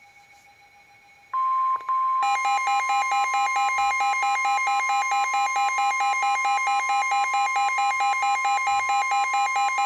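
Weather radio alert tones announcing a severe thunderstorm warning. A steady, loud tone near 1 kHz, the warning alarm tone, starts about a second in. About a second later a fast, pulsing beep joins it, and the two sound together to the end.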